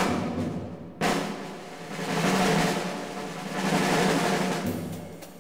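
Soundtrack music: a drum roll over a low sustained tone, starting abruptly about a second in, swelling twice and fading out near the end.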